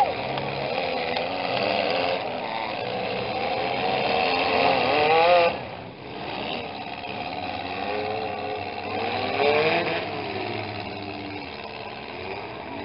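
Several small-car engines revving hard in a mini-car demolition derby. The revs rise to a peak about five seconds in, drop off sharply, and climb again briefly near the ten-second mark.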